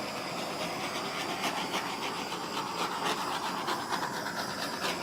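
Hair dryer blowing steadily, a continuous airy hiss with a faint motor hum in it.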